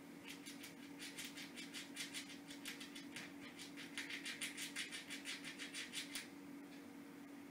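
A squirrel gnawing at a hazelnut shell with its teeth: a rapid run of crisp scraping clicks, several a second, louder in the second half and stopping about six seconds in.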